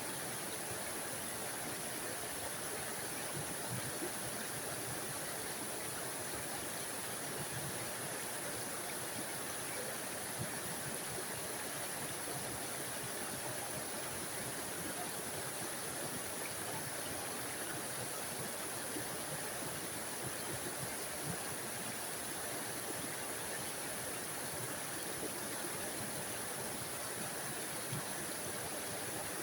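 Tiny waterfall on a forest stream: water falling and rushing in a steady, unchanging hiss.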